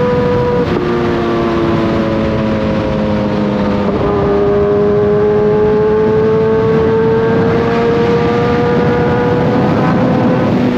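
Kawasaki sport bike's inline-four engine running under way, its pitch stepping down about a second in, shifting again around four seconds in and then slowly climbing, over steady rushing noise.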